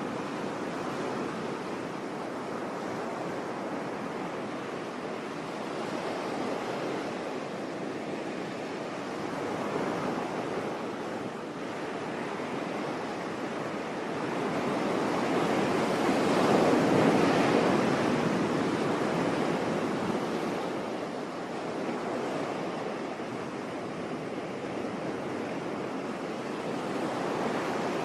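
Sea waves washing onto a shore in a continuous surf wash, with one larger wave swelling and receding about halfway through.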